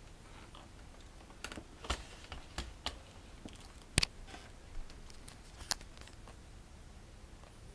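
Irregular light clicks and taps, a dozen or so scattered unevenly, with one sharper knock about four seconds in.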